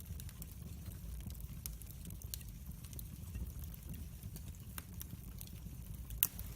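Log fire burning in a fireplace with a low rumble and scattered sharp crackles and pops, the loudest pop near the end.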